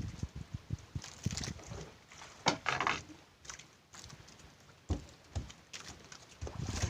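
Irregular knocks and thumps on a small fishing boat, with a short hissing burst about two and a half seconds in.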